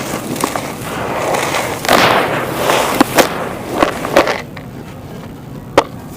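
Dry clay crumbling and crunching as it is broken apart, with several sharp snaps and one loud crack near the end.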